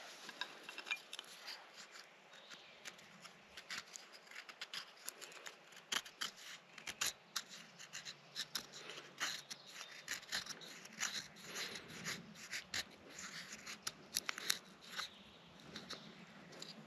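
A run of small, irregular crisp clicks and snaps, several a second, varying in strength.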